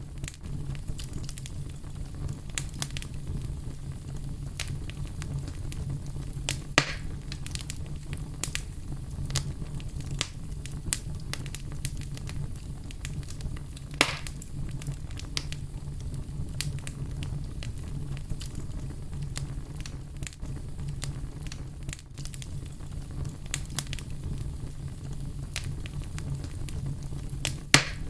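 A fire crackling steadily over a low rumble, with many small snaps and three louder pops: about a quarter of the way in, halfway, and at the very end.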